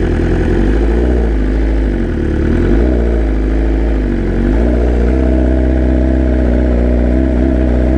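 BMW S1000RR's inline-four engine running under way, its revs dipping and rising gently before settling higher about halfway through.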